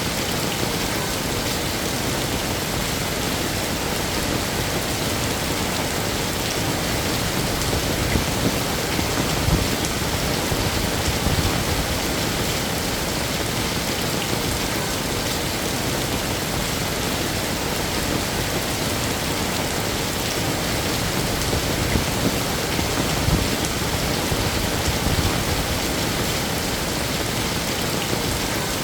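Heavy rain falling steadily, a dense even hiss of drops, with a few brief louder surges about a third of the way in and again near the end.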